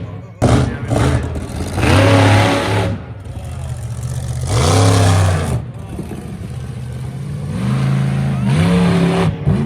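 Monster truck engine revving hard in repeated surges, its pitch climbing and falling with each throttle blip: loud, with three main surges, about a second and a half in, near five seconds, and near the end.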